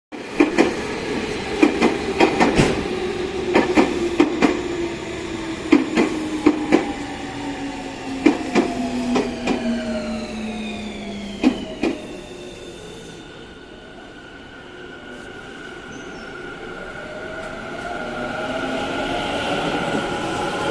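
Electric train's motor whine gliding down in pitch over the first half, with repeated sharp clicks of wheels over rail joints, as the train slows. After a brief lull, a rising whine builds near the end as a Tobu 50000 series train's inverter-driven motors start it off.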